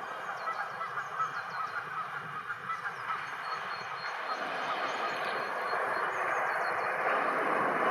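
Rumble of an approaching train growing steadily louder from about halfway through. Over it, during the first half, comes a run of short, evenly repeated honking calls.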